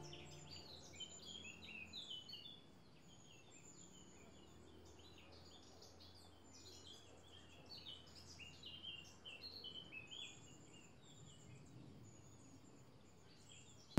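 Faint songbird chirping: many quick, short high notes, in busy spells during the first couple of seconds and again in the middle.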